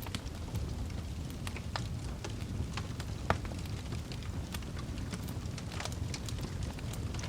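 Wood fire burning in a fireplace: a steady low rumble of flames with irregular sharp crackles and pops from the logs, the loudest pop about three seconds in.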